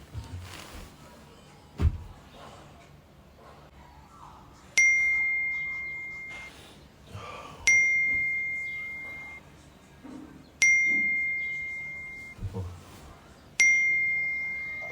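A phone's chime tone dinging four times, about three seconds apart; each is a single high bell-like note that rings out and fades. A dull thump comes about two seconds in.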